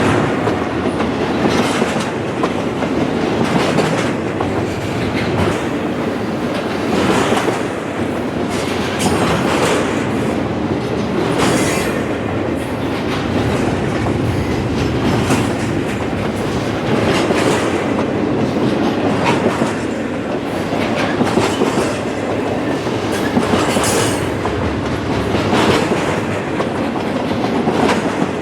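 Freight train cars rolling past close by, a steady rumble and hiss of steel wheels on rail with repeated clickety-clack every second or two as wheel sets cross rail joints.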